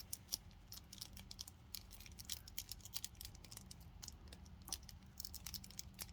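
Faint crinkling and small clicks of a Pokémon card booster pack's foil wrapper being handled and opened.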